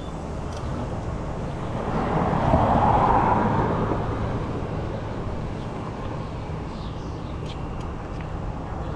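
City traffic noise with a vehicle passing, loudest about three seconds in and then fading.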